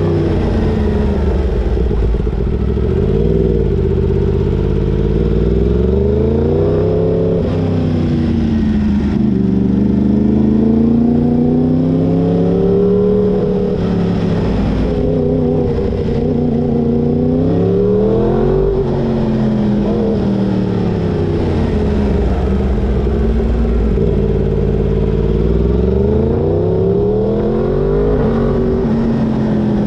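Yamaha crossplane inline-four sport motorcycle engine under way, its pitch repeatedly climbing under throttle and falling off again as it is ridden through a run of tight bends.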